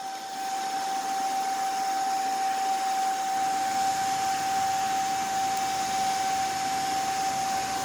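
Homemade fan, a hard-drive spindle motor spinning a PC cooler's blades off a 12 V controller, running fast: a steady high whine over a strong rush of air.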